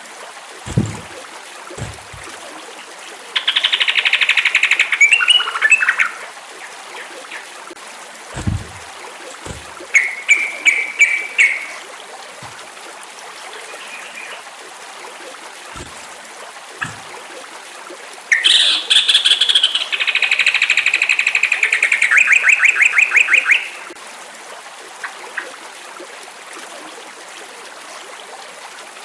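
Sooty-headed bulbul (trucukan) singing in three bursts of bubbly phrases, the last one ending in a long, rapid trill, over a steady hiss of running water. A few soft, low thumps sound in the first ten seconds.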